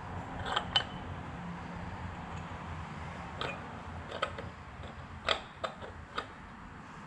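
Light, irregular clicks and clinks of metal exhaust tubing pieces being handled and test-fitted, about eight in all, over a low steady background hum.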